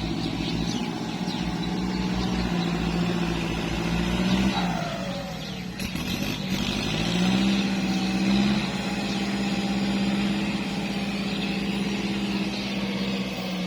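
Kubota tractor's diesel engine running steadily under load, pulling a rotary tiller. Its pitch sags about five seconds in and picks back up a couple of seconds later.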